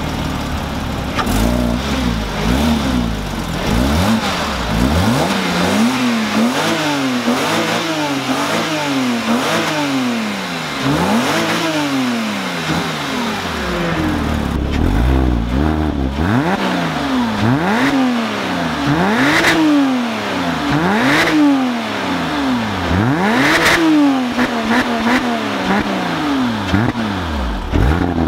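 Porsche 987 Cayman S flat-six on its stock exhaust, idling for a few seconds and then blipped over and over, each rev rising and falling about once a second.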